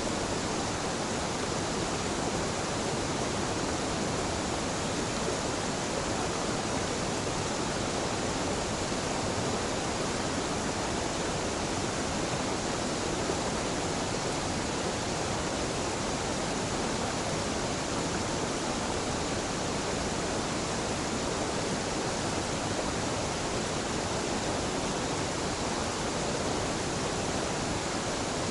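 Gentle waterfall pouring steadily: an unbroken, even rush of falling water.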